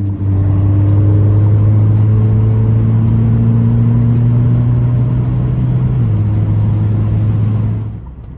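2017 Alfa Romeo Giulia's turbocharged four-cylinder pulling hard through a muffler-delete exhaust: a loud, steady drone that climbs slowly in pitch, drops a step about six seconds in, then falls away sharply near the end as the throttle lifts.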